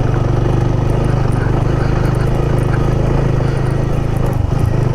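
Motorcycle engine running steadily under way, with a short dip in the engine note near the end.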